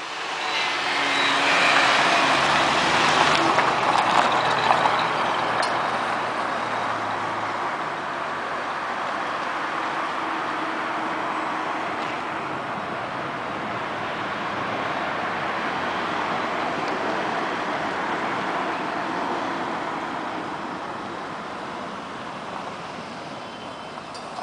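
1977 Ford LTD's 351 cubic-inch V8 driving off across a gravel lot, loudest as it pulls away in the first few seconds, then a steadier, fainter run as it circles, growing again near the end as it comes back.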